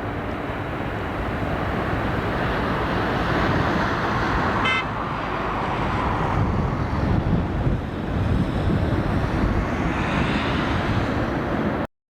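Jet engine noise from a Boeing 777-300ER's twin GE90 engines landing in a strong crosswind, a steady dense roar mixed with gusty wind rumble on the microphone. A brief high beep sounds about five seconds in, and everything cuts off suddenly near the end.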